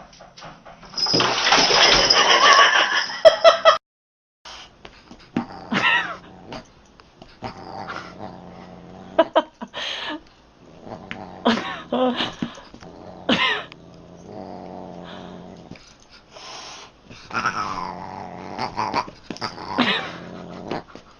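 A cat and a dog squaring off: a loud noisy scuffle about a second in, then after a cut a series of short cat yowls and growls that rise and fall in pitch, with dog sounds among them.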